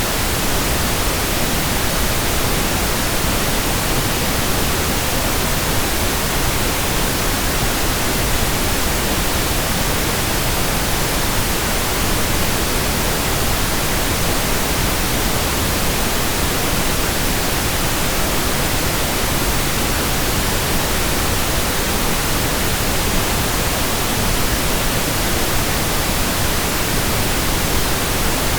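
Steady synthetic pink noise: an even, unchanging hiss across all pitches, fuller in the low end than white noise.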